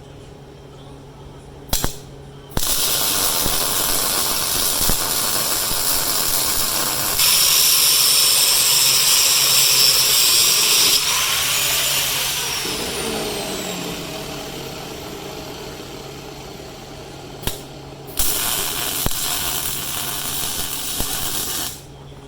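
Angle grinder grinding the cast-iron engine block. A short burst comes first, then a long run, loudest in the middle, which winds down with a falling whine about eleven seconds in. A second run near the end cuts off suddenly.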